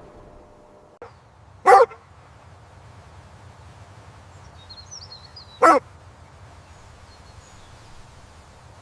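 A dog barking twice: two single barks about four seconds apart, with faint high chirps between them.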